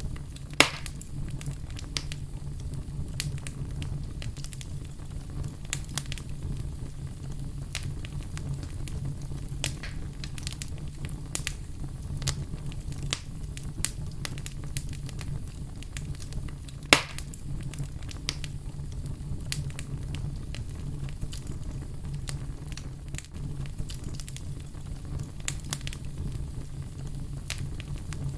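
Fire crackling: a steady low rumble under frequent small crackles, with two loud sharp pops, one just after the start and one a little past halfway.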